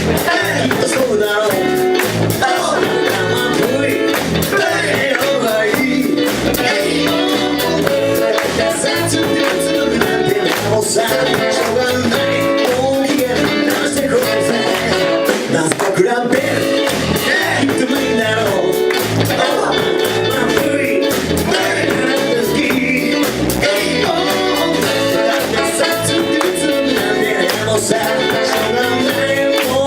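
Band music with guitar over a steady beat of bass and drums, and a voice singing.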